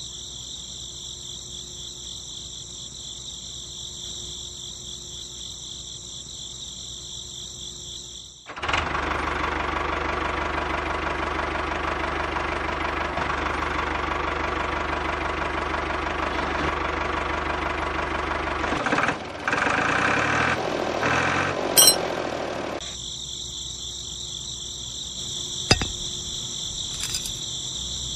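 Crickets chirring steadily, then about eight seconds in a small model machine starts and runs loudly with a steady low hum. After about ten seconds it turns choppy and stops, the crickets return, and two sharp clicks sound near the end.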